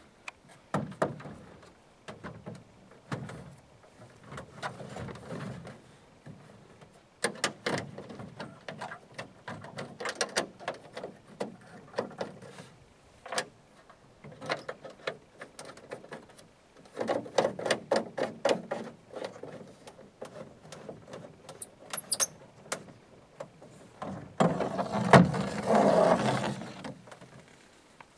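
Parts of a portable mini boat being handled and fitted together: clusters of clicks and knocks, a few brief high squeaks, and a louder rushing noise lasting a couple of seconds near the end.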